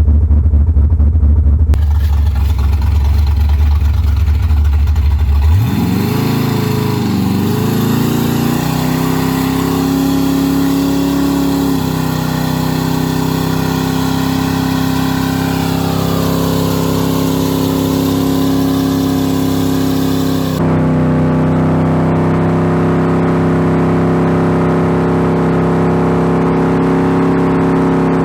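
Car engine with a heavy low rumble for the first few seconds, then revved up about five seconds in and held at high, steady RPM, the pitch wavering briefly as it climbs. The sound changes abruptly about two-thirds through, and the revs fall away near the end.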